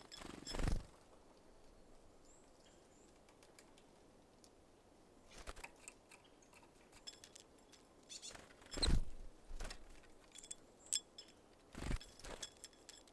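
Small birds at a seed feeder: scattered light clicks and taps of beaks and seeds, with four short, louder rustling bursts of wings and bodies landing or taking off.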